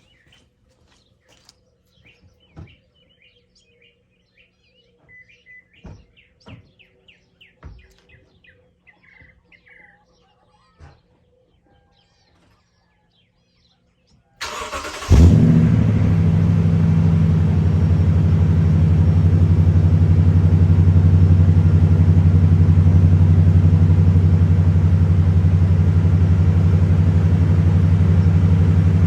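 Birds chirping, then about halfway through a cold start of a Toyota Sequoia after sitting overnight: a brief crank, the engine catches with a loud flare and settles into a steady idle. The exhaust runs through a Magnaflow dual-in, single-out muffler with the resonator removed.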